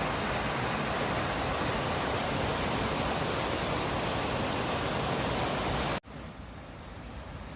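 Waterfall rushing, a steady wash of water noise. About six seconds in it cuts off abruptly and comes back as a quieter rush.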